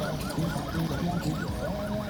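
Electronic vehicle siren in a fast yelp, a quick up-and-down wail repeating about five times a second, over a steady low drone.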